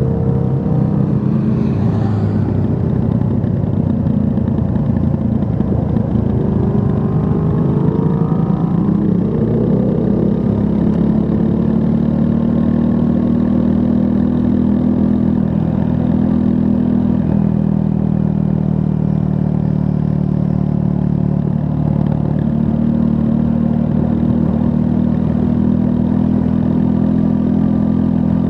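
2024 Triumph Scrambler 400 X's 398 cc liquid-cooled single-cylinder engine under way. The revs climb a couple of times in the first ten seconds or so, then the engine runs at a steady pitch.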